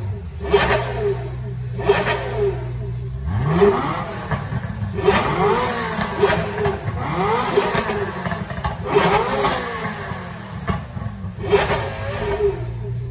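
Supercar engines, a Ferrari F40's twin-turbo V8 and a Porsche Carrera GT's V10, idling and then revved in short blips several times through the middle, the pitch rising and falling with each, before settling back to idle near the end. Short sharp cracks come in between.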